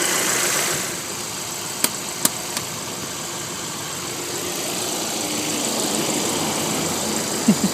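2011 Hyundai Sonata's 2.4-litre direct-injected four-cylinder idling with a noisy, tapping valvetrain, which the owner puts down to lifters tapping badly and not to direct injection or old oil. It gets a little quieter about a second in, and three sharp clicks come around two seconds in.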